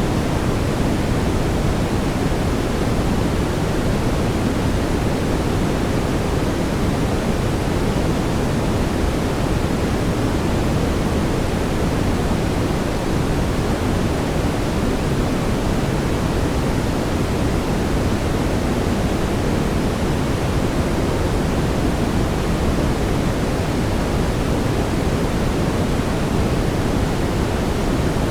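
Steady brown noise: an even, deep hiss weighted toward the low end, with no changes or events.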